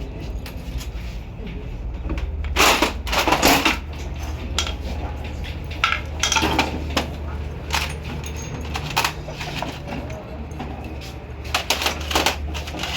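Metal engine parts and tools clinking and clattering as they are handled during rickshaw engine assembly. The clatters are irregular, with a busy cluster about three seconds in and another near the end, over a steady low hum.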